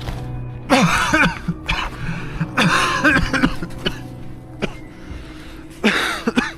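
Three loud, short cough-like bursts from a person's voice, each falling in pitch, over steady background music.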